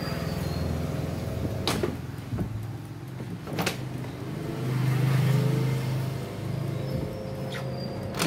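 Sharp air fryer running with a steady low motor hum that swells about halfway through, with four sharp clicks of the basket drawer sliding in and out.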